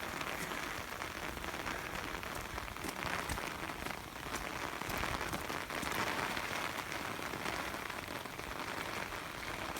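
Heavy rain pouring down, a steady hiss with many fine drop ticks, pattering on a small umbrella held over the phone.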